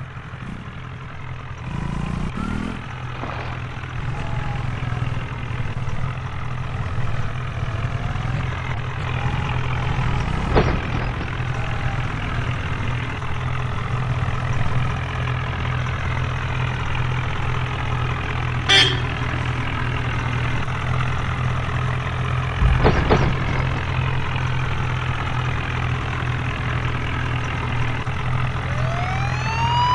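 HMT tractor's diesel engine idling steadily with a low hum, with a few sharp knocks. Near the end a siren-like wail rises in pitch.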